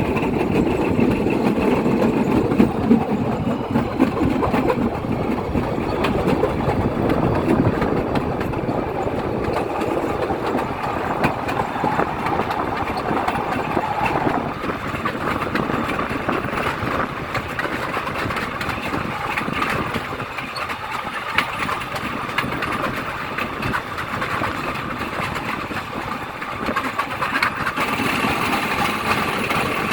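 A motor vehicle's engine running steadily, with a noisy rush over it; the sound thins out somewhat about halfway through.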